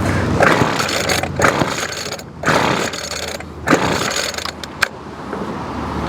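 Small 25cc two-stroke string-trimmer engine running rough and surging, dropping out briefly twice as it stumbles toward a stall while its carburetor's low-speed mixture is being adjusted.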